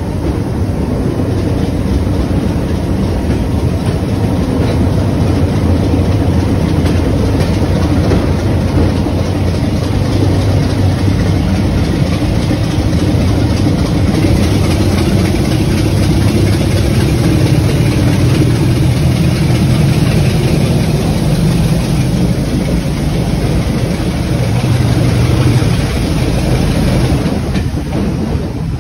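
Heritage railway train running, with a steady heavy engine drone over the rumble of the train; the engine note swells and rises in pitch from about halfway through, then eases off just before the end.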